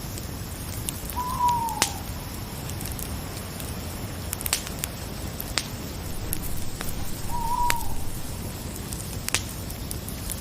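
An owl hooting twice, each call a short note that falls slightly in pitch, about six seconds apart, over a campfire crackling with scattered sharp pops and a steady hiss.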